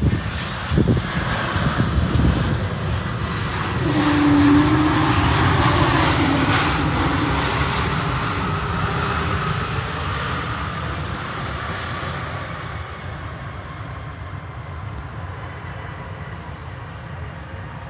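Jet airliner engines running loud, swelling to a peak about five seconds in and then slowly fading away.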